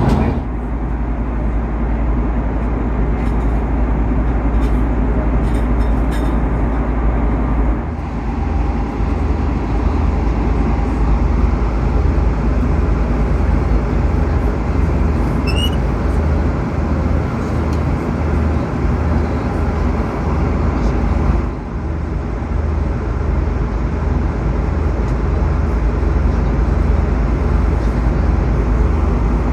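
Steady low rumble and rush of engine and airflow noise inside the cabin of an Airbus A330-200, dipping briefly twice.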